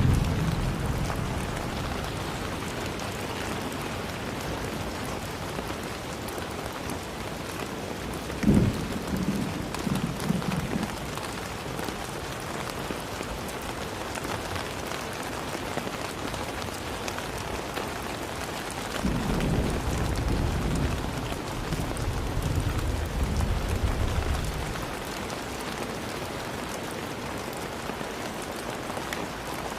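Steady rain falling, an even hiss of drops throughout. About eight seconds in a sudden clap of thunder rolls on for a couple of seconds, and from about nineteen seconds a longer low rumble of thunder lasts some five seconds.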